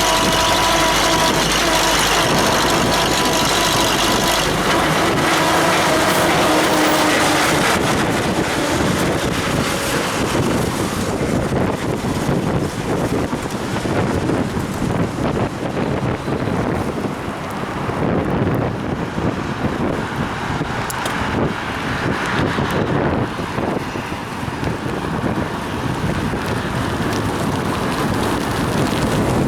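A motor vehicle close by with a steady whine of several tones for the first eight seconds or so, then a continuous hiss of wet road and wind on the microphone while riding in the rain.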